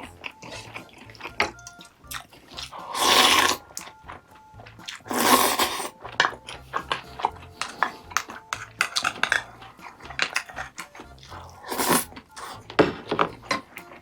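Eating sounds: a spoon and chopsticks clicking against dishes and chewing, with two loud slurps of soup about three and five seconds in. Quiet background music plays underneath.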